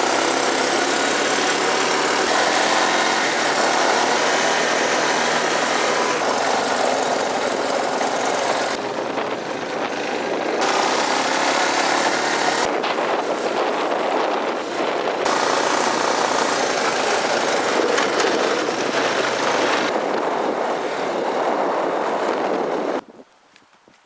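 A vehicle engine running steadily under loud wind and road noise, as heard while riding along; it cuts off abruptly about a second before the end.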